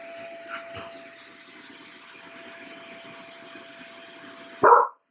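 Vacuum cleaner running with a steady motor hum and hiss, cut off suddenly near the end as a dog gives one loud bark.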